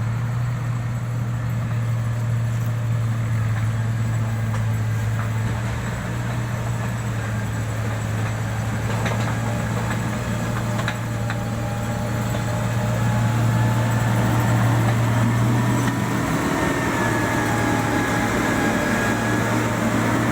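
Heavy-equipment diesel engine running steadily with a low, even hum, a few faint clicks about halfway through.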